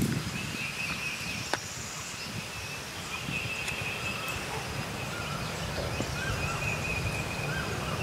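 Wild birds singing: a high, thin trill held for a second or two at a time with short breaks, and a few short chirps, over a low steady rumble.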